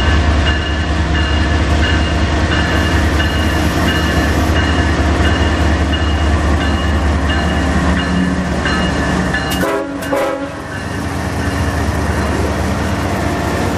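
Canadian Pacific diesel freight locomotives passing close by, their engines giving a loud, steady low rumble over the sound of wheels on the rails. A little under ten seconds in the engine rumble drops away as the locomotives go past and the rail cars follow.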